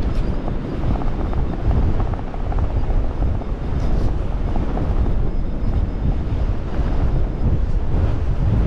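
Gale-force wind buffeting the microphone: a loud, steady low rumble.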